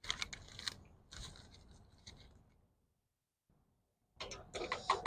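Ground coffee being scooped from a bag and tipped into a percolator's filter basket: crinkly scraping and crunching in two spells, with a short pause between them.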